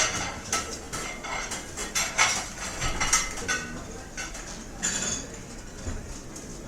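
Cutlery and dishes clinking and clattering in a restaurant, a run of sharp clinks in quick succession with a louder clatter near five seconds, over a low murmur of room noise.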